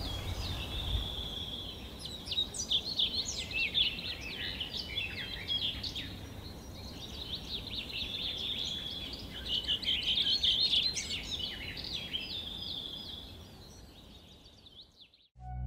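Several small birds chirping and singing, with quick calls and trills overlapping. The sound fades out near the end.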